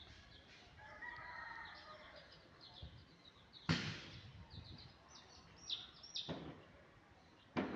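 Chickens cheeping: many short high calls over and over, with a lower drawn-out call about a second in. Sudden loud rustles or knocks break in about halfway, again a little later and near the end.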